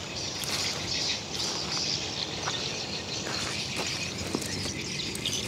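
Outdoor background of birds chirping, with a few faint clicks.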